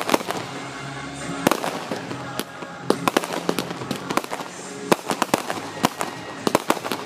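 Aerial fireworks going off in a rapid, irregular series of sharp bangs and crackles, thickest in the second half, with music playing underneath.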